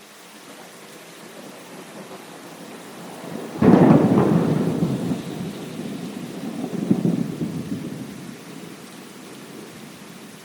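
Steady rain hiss, then a sudden clap of thunder about a third of the way in that rolls on as rumbling, swells once more a few seconds later, and fades back under the rain.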